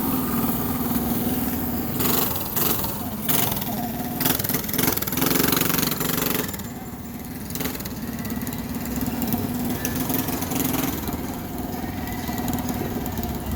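An old car's engine idling with a steady hum, broken by a run of short, loud noisy bursts between about two and six seconds in.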